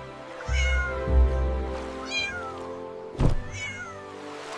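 A cat meows three times, each call falling in pitch, over soft sustained background music, with a brief thump shortly before the third meow.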